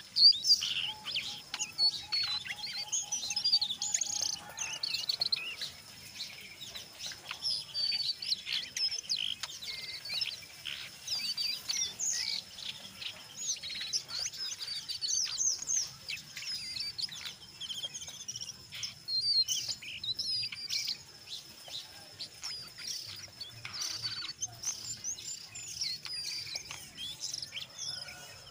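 Jongkangan coklat bird chattering, a rapid stream of sharp chirps and quick up-and-down whistles. A thin, steady high insect-like whine runs beneath it.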